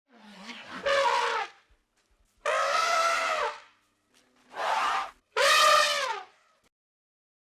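An animal calling four times, each call a drawn-out pitched cry of about a second with a wavering tone, separated by short silences.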